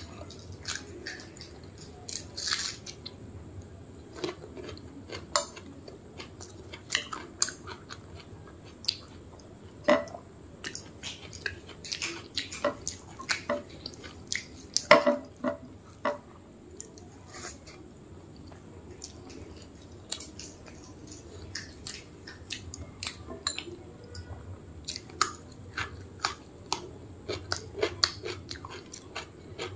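Close-miked chewing and mouth smacks of rice and mutton curry eaten by hand, many short wet clicks at irregular intervals, the loudest about halfway through.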